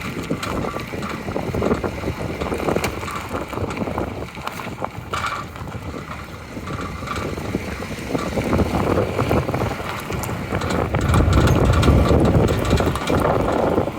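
Geely Coolray on the move: steady road and tyre rumble with irregular light knocks, the brake caliper knock. The rumble grows louder about eleven seconds in.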